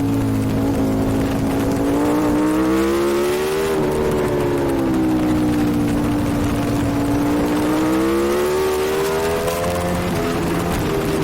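Superbike engine at race pace heard from on board, with wind rushing past. The engine note dips at first, climbs to a peak about four seconds in, drops, then rises slowly again before falling back near the end, as the rider works the throttle and gears through the corners.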